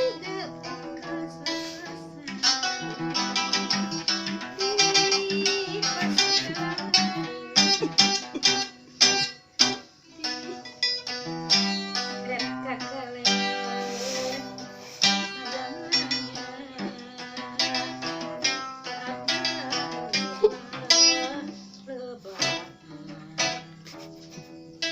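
Kacapi, the Sundanese plucked zither, played in quick runs of plucked notes, with a couple of brief pauses about eight to ten seconds in.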